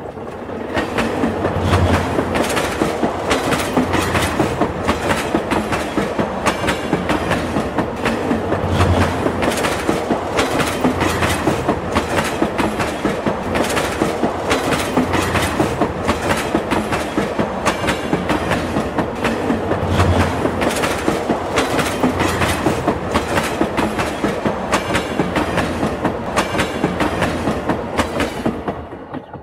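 Hirakhand Express passenger coaches running through a railway tunnel: a loud, steady rumble of wheels on rail with rapid, continuous clickety-clack over the rail joints. It grows louder about a second in as the train enters the tunnel and drops away sharply near the end.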